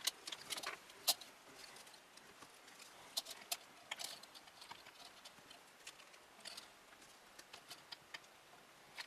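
Scattered light clicks and taps of hands handling plastic and metal computer parts while fitting fans and a cooler in a PC case, several close together early on, then sparser with quiet gaps.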